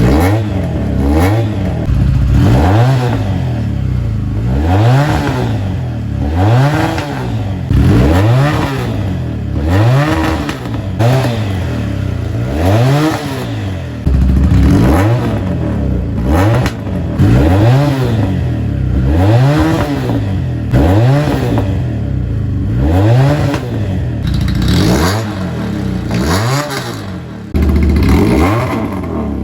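Factory FK370 motorcycle engine revved over and over through an aftermarket exhaust. The pitch climbs and drops back in quick blips, about one every second or two.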